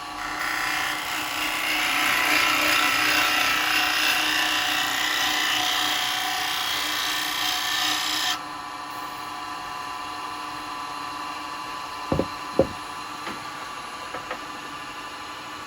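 A bowl gouge cutting a spinning wooden bowl blank on a wood lathe: a steady hissing shaving noise for about eight seconds that stops suddenly when the tool comes off the wood. The lathe keeps running with a steady hum, and two sharp knocks come about twelve seconds in.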